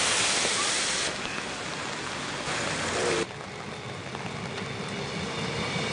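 Rain hissing on a wet street, then, after a cut about three seconds in, an electric commuter train passing close by: a low rumble of its wheels on the rails with a faint steady whine.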